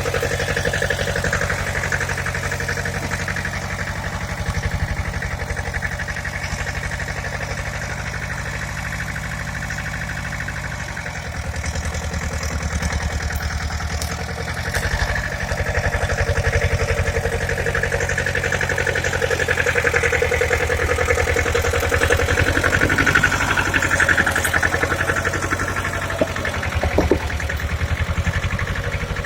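Pasquali tractor engine running steadily at around idle, its note shifting a few times. A couple of short knocks come near the end.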